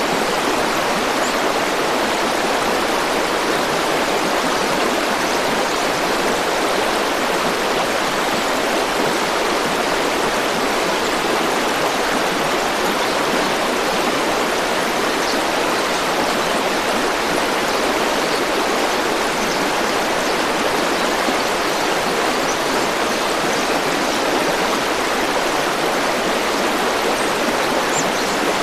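River or stream water flowing and rushing steadily, an even, unbroken sound.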